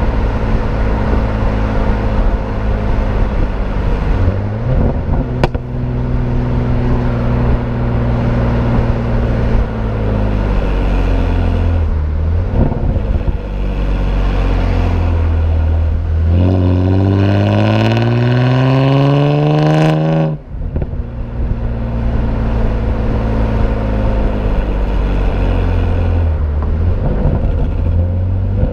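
BMW E90 328i's inline-six through aftermarket AA headers and a performance exhaust, running under way with a steady exhaust note. About two-thirds of the way in, the engine pulls hard and its pitch climbs for about four seconds, then drops suddenly as the automatic transmission upshifts.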